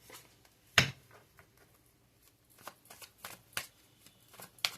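Tarot cards being shuffled by hand: one sharp card snap about a second in, then a run of quick, irregular card clicks in the second half.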